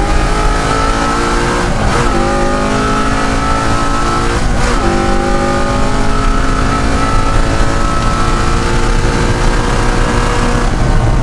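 De Tomaso Pantera's Ford V8 race engine accelerating hard, its pitch climbing through the gears with quick upshifts about two and five seconds in.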